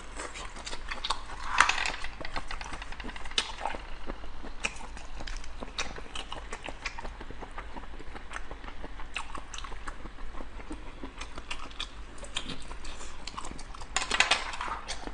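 Close-miked chewing of garlic abalone: a steady run of wet mouth clicks and smacks, busier about a second and a half in and again near the end.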